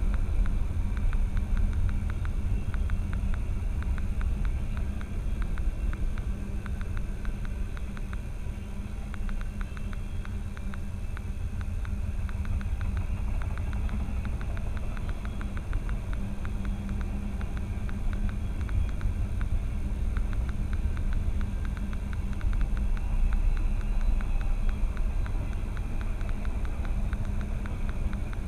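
Steady low vehicle rumble with a constant droning hum, and a fast faint ticking through most of the first two-thirds that then fades.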